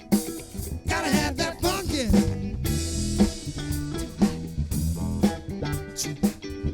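A live band playing an instrumental passage: electric guitar over bass and a drum kit keeping a steady beat.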